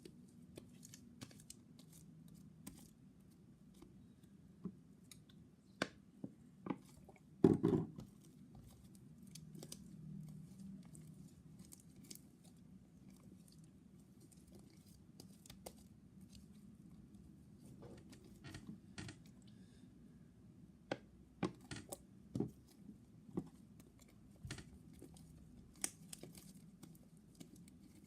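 Fluffy borax-activated slime being kneaded and pulled by hand: faint sticky crackles and clicks throughout, with one louder thump about seven seconds in. The slime is firming up and starting to come away from the hand.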